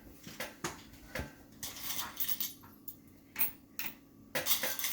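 Coins clinking as they are handled and dropped a few at a time into a floating tin-foil boat, in a string of short, irregular clinks.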